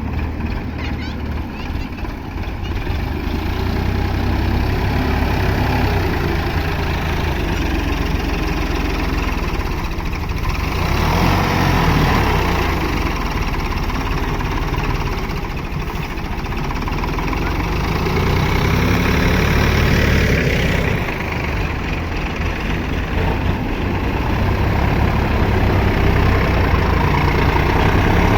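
Tractor diesel engine running steadily under a low rumble, rising in revs twice: about eleven seconds in and again around twenty seconds in.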